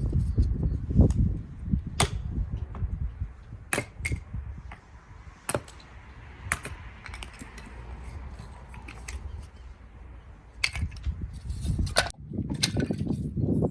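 Scattered sharp snaps and knocks, about a dozen, spread irregularly through the stretch, with strong wind buffeting the microphone as a low rumble at the start and again near the end.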